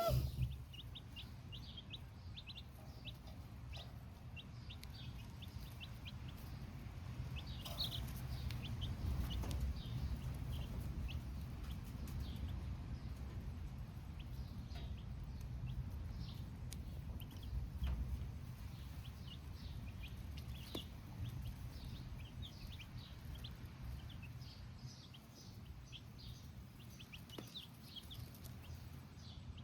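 A flock of baby chicks cheeping: many short, high peeps, several a second, over a low steady rumble.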